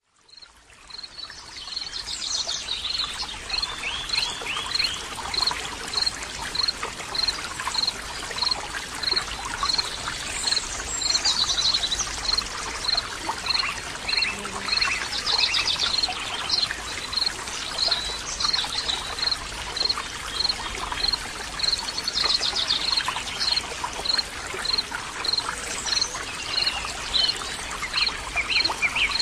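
Birds chirping and trilling over the steady rush of flowing water, with a high, even note repeated a little under twice a second throughout. The sound fades in over the first two seconds.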